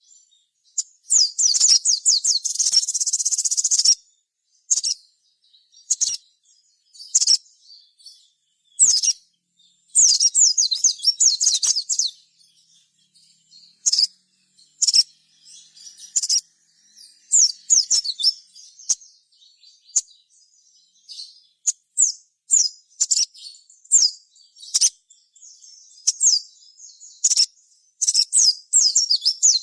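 A sogon bird singing: rapid, high-pitched twittering phrases. Most are short bursts about a second or two apart, with a few longer trills of two to three seconds.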